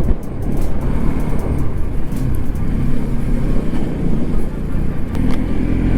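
Motor vehicle engine running steadily, its pitch stepping up about five seconds in as it revs higher.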